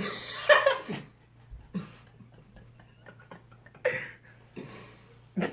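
People laughing in short breathy bursts: a longer laugh in the first second, then brief ones near two seconds, near four seconds and just before the end.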